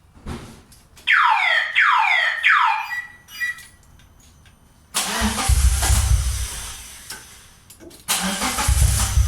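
Three loud falling whistles about a second in, then the rebuilt Toyota 4A-GE four-cylinder engine of a 1988 Corolla cranking on the starter for about two and a half seconds. It stops, then cranks again near the end on its first start since the rebuild, with the cam timing freshly reset.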